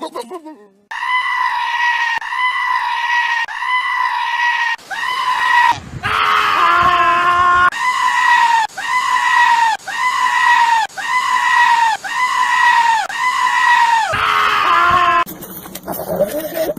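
A goat screaming over and over: a fast run of short, high, steady-pitched cries, about one and a half to two a second, with lower bleats mixed in around the middle. Near the end it gives way to a different, rougher bleating.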